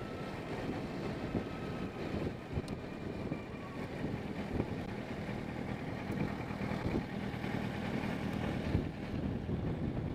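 Motorcycle engine running steadily, a low hum under a haze of wind and road noise.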